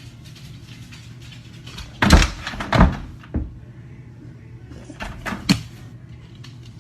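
A few sharp knocks and thuds: three about two to three and a half seconds in, and another short cluster around five seconds in, over a low steady room hum.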